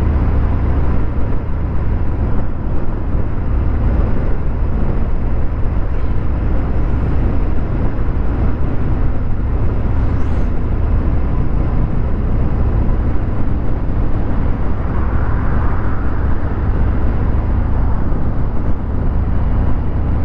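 Harley-Davidson Fat Bob 114's Milwaukee-Eight 114 V-twin, fitted with a Vance & Hines 2-into-1 exhaust, running steadily at riding speed with a deep low rumble. A brief high-pitched sound cuts in about ten seconds in.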